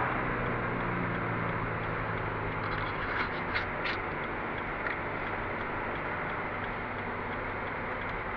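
Toyota GT86's flat-four engine running at steady revs, heard from inside the cabin, over a steady hiss of tyre and road noise on the wet track. A few brief clicks come between about three and five seconds in.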